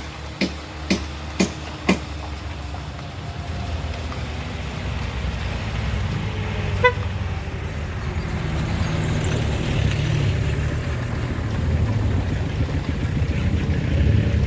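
Traffic on a jammed road. In the first two seconds a vehicle horn gives a quick series of short toots, about two a second. One more brief toot comes about seven seconds in, while the low rumble of engines grows steadily louder.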